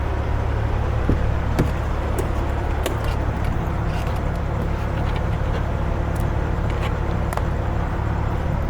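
Semi-truck diesel engine idling, a steady low hum, with a few light clicks and knocks over it.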